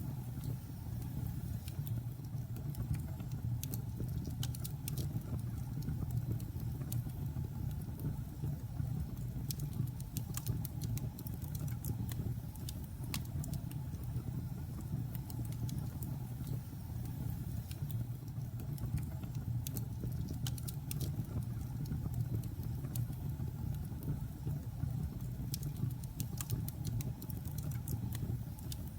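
Log fire burning in a fireplace: a steady low rumble of flames with scattered sharp crackles and pops, which come thicker about ten seconds in and again near the end.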